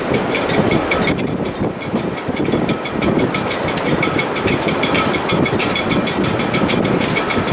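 Sailboat shrouds and rigging in heavy weather: wind noise with a dense, rapid clicking and rattling of the rigging.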